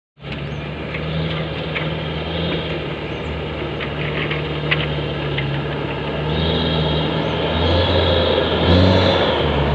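Diesel engine of a loaded dump truck running steadily, growing louder near the end.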